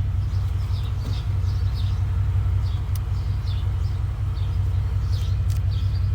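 Old GMC farm truck engine idling steadily with a low rumble. It keeps running because the ignition key will not turn to off.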